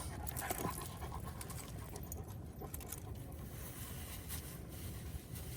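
Outdoor ambient noise: a steady low rumble with a few faint scattered taps and clicks, and no single clear source standing out.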